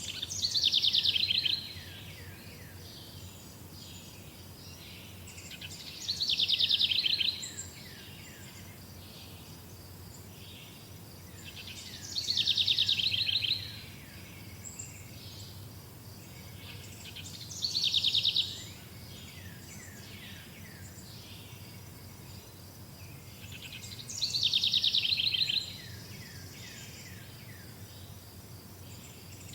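A songbird repeating the same short song about every six seconds, five times, each a quick run of falling notes that ends in a fast trill. Faint higher chirps and a steady low background noise lie underneath.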